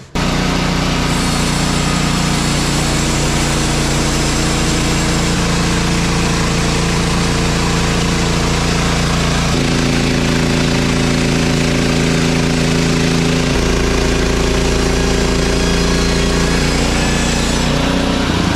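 Gas engine of a Woodland Mills portable bandsaw sawmill running steadily at high speed, its tone shifting slightly about ten and again about fourteen seconds in.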